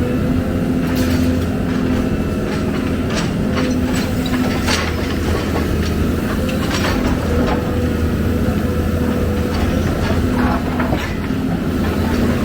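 Heavy diesel machinery, an excavator at work, running steadily under load, with scattered metallic clanks and knocks over the engine drone.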